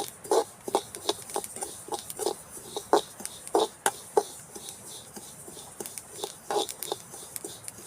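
Grains popping and crackling as they dry-roast in a pan: irregular sharp pops, several a second.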